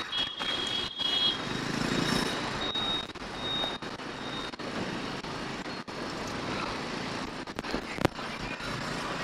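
Street traffic ambience heard from a moving bicycle, a steady mix of passing vehicles. A high steady tone sounds for about the first second, followed by a few short high beeps. Brief audio dropouts and a sharp crackle about eight seconds in come from radio interference in the camera's microphone adapter.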